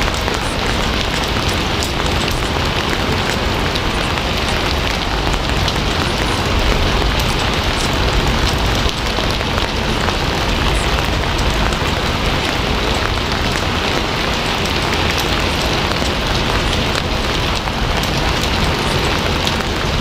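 Steady heavy rain falling on a surface, an even hiss with many small drop ticks.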